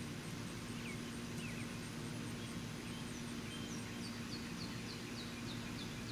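Outdoor background with a bird calling: a few scattered short chirps, then about two-thirds of the way in a bird starts a quick, even run of short falling chirps, about three a second, over a steady low hum.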